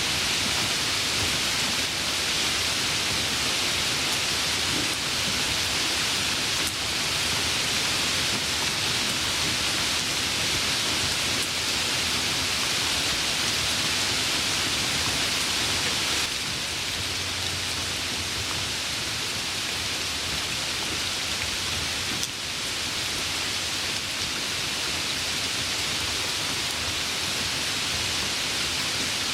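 Steady rain falling, an even, dense hiss, a little quieter from about halfway through.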